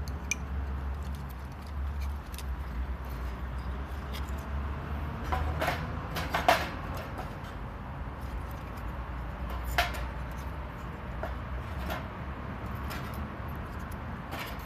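Steady low rumble with scattered light clicks and knocks; the loudest knocks come in a cluster about six seconds in, with single ones near ten seconds and near the end.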